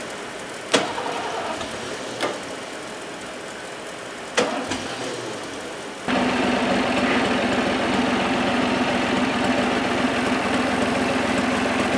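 Three sharp knocks, then about six seconds in a diesel engine comes in abruptly and runs steadily. It is the 1975 John Deere bulldozer's diesel, which lit right off in the cold without ether.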